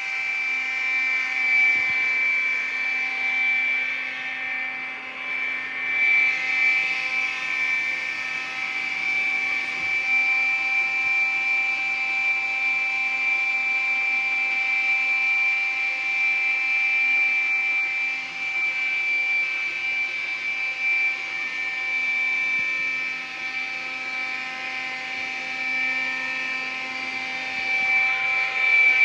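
iRobot Scooba 390 floor-scrubbing robot running its cleaning cycle: a steady, high-pitched motor whine over a lower hum, holding level throughout.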